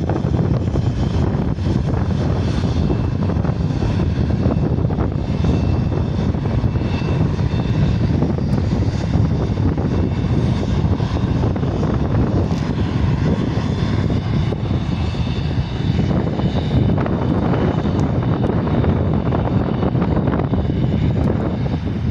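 Cessna Citation XLS business jet's twin turbofan engines at takeoff power: a loud, steady rumble with a faint high turbine whine above it.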